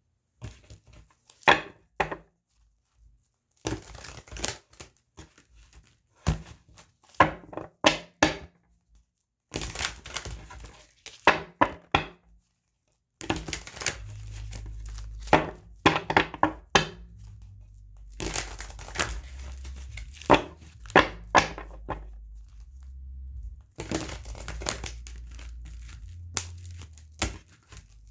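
A deck of tarot cards being shuffled and handled: groups of quick papery clicks and flutters with short pauses between them. A low hum runs underneath from about halfway through.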